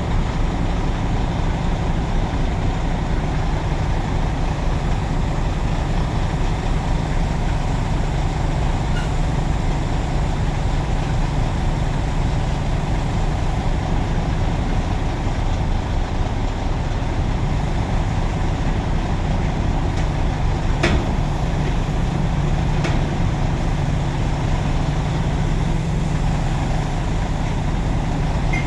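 A truck's engine running steadily with a low drone, with a few brief clicks about two-thirds of the way through.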